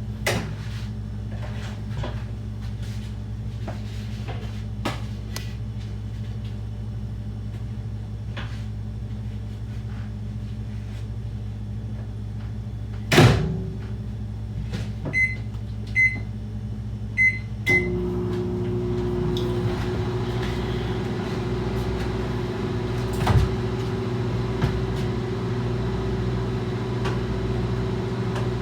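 A microwave oven door is shut with a loud clack, followed by four short keypad beeps. The microwave then starts running with a steady hum. Before this there is a low appliance hum and small kitchen clicks.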